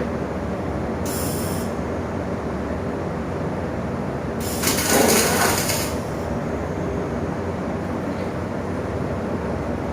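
Steady low machine hum with a brief high hiss about a second in and a louder, longer hiss around five seconds in.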